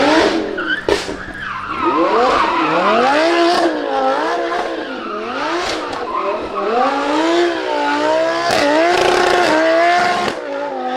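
Drift car engine revving up and down over and over as the throttle is worked, with loud tyre squeal throughout and a few sharp cracks.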